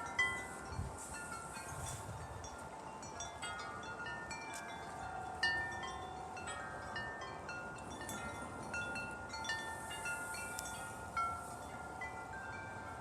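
Metal wind chimes ringing in gusty wind, many tubes struck irregularly and overlapping, each note ringing on and fading, over a faint low rumble of wind.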